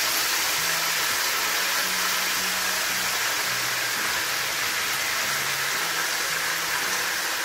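Turkey necks frying in hot oil in a skillet: a steady sizzle.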